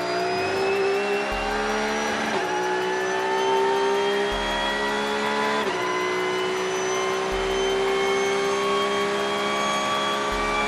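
Race car engine accelerating hard, its pitch climbing steadily through each gear and dropping at the upshifts, three times.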